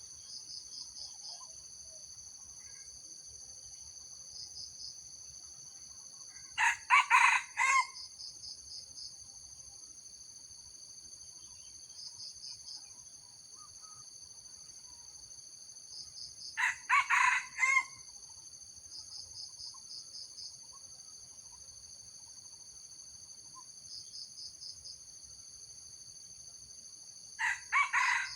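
Red junglefowl rooster crowing three times, about ten seconds apart, each a short, clipped crow of a few broken notes; the last is cut off at the end. Cicadas or crickets drone steadily throughout, with quick chirping bursts.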